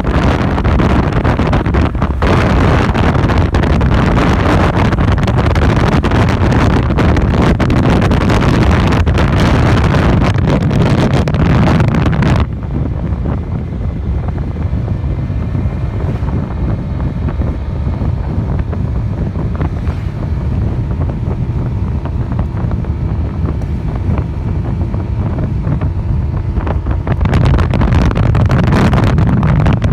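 Wind rushing over the microphone of a riding motorcycle, loud at first, easing about twelve seconds in so that a faint steady engine hum shows through, then building again near the end.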